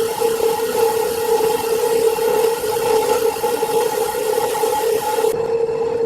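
Sawmill saw running steadily with a constant hum, cutting wood with a hissing rush that cuts off suddenly about five seconds in.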